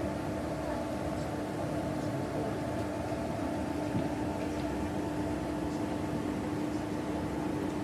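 Steady drone of a running locomotive, a constant hum with one strong low tone over even machine noise.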